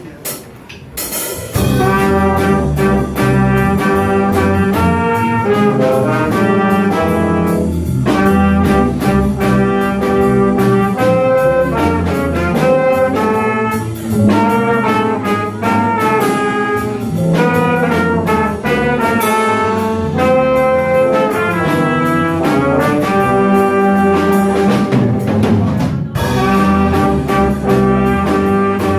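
Small jazz band of trumpet, tenor saxophone, trombone, piano, bass and drums playing. The full band comes in loud about a second and a half in, with the horns carrying the melody together over the rhythm section.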